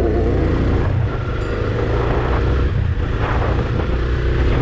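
Yamaha FZ25's single-cylinder engine running steadily as the motorcycle rides along at road speed, with road and traffic noise around it.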